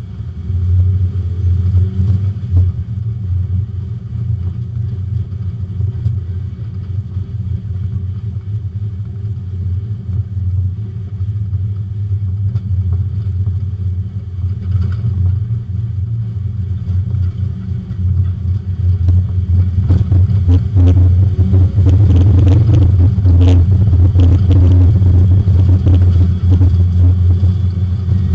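Porsche 924 race car's four-cylinder engine heard from inside the cabin, running steadily at low revs, then getting louder with more rattle about two-thirds of the way through.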